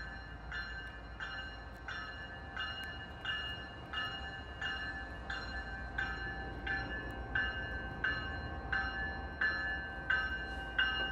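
Railroad crossing warning bell ringing, an even chime repeating about one and a half times a second, over a low steady rumble.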